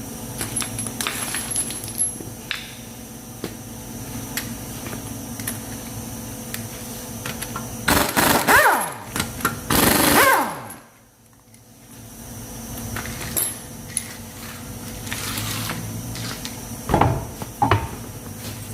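Two loud bursts of an impact wrench about eight and ten seconds in, the first winding down in pitch, as a wheel is taken off to get at the suspension. Scattered clinks and knocks of tools and metal parts run through the rest, over a steady low hum.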